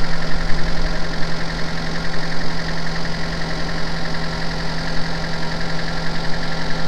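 Citroën Xantia car engine idling steadily, with a constant low hum, while its hydropneumatic suspension pumps the car up to ride height.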